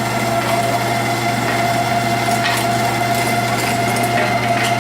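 A small electric motor running steadily, with a constant hum and a steady whine and a couple of faint clicks.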